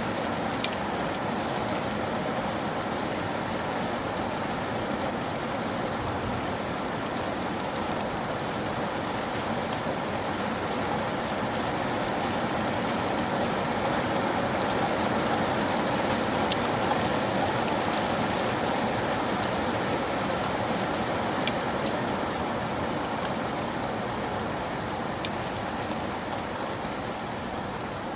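Steady rain falling, an even patter with a few sharper single drops standing out now and then.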